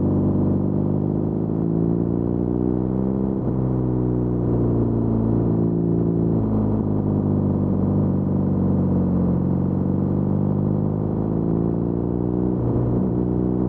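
BMW R nineT's air-cooled boxer twin running through the stock Akrapovič muffler with its silencer insert removed, giving a loud open exhaust note. The pitch climbs steadily for a few seconds and then drops sharply, holds, steps down again, then climbs and drops once more near the end, like a bike accelerating and shifting up.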